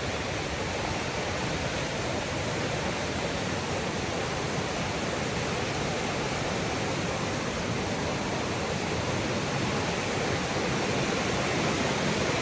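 Steady rushing of a waterfall, growing a little louder toward the end.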